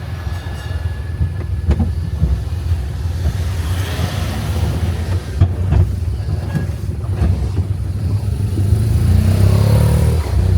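Tourist road train running along the road, heard from on board: a steady low engine and rolling rumble with a few knocks and rattles, growing louder near the end.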